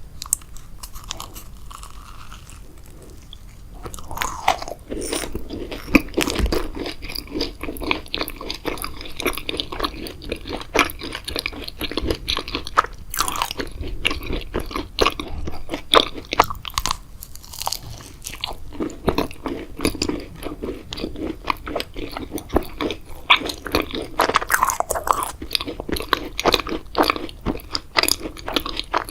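A person biting, crunching and chewing Halloween sweets, with a steady run of sharp crackles. It is softer for the first few seconds, then the crunching gets louder and denser.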